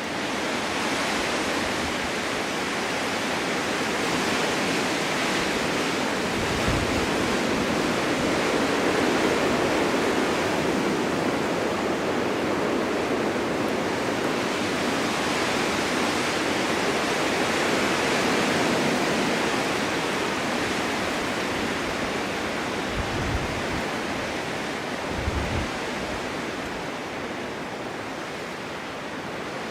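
Snowstorm wind blowing steadily, swelling in strength through the middle and easing toward the end, with three brief low rumbles.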